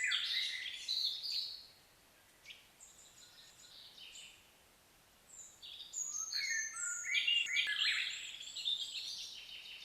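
Birds singing and chirping: quick whistled notes and chirps, some sliding in pitch, in a busy bout at the start, a lull with a few faint notes, then a second busy bout from about halfway on.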